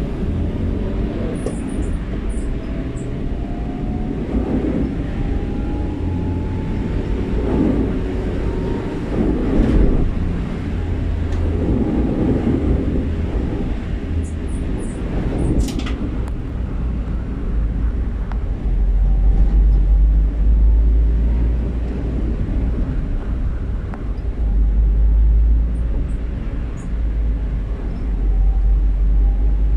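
Motor vehicle running with a heavy low rumble that swells several times, carrying faint rising and falling tones and a few light clicks.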